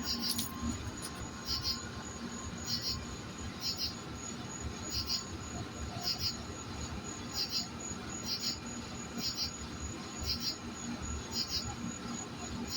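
Cricket chirping steadily, short pulsed chirps about once a second, over a faint steady high-pitched insect drone.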